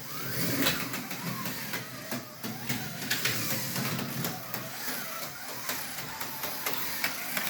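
An HO-scale slot car running a lap on a plastic track: its small electric motor whirs, rising and falling with the throttle, over a steady clatter of small clicks from the car on the rails.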